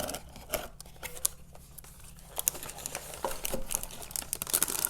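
Takeout food packaging being opened and handled by hand: paper crinkling and rustling with scattered small clicks and taps.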